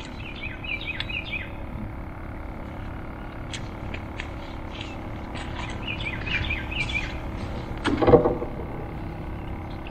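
A songbird singing two short warbling phrases, one about half a second in and one around six seconds, over a steady outdoor background. Scattered sharp clicks are heard, and a short low grunt-like sound, the loudest thing, comes about eight seconds in.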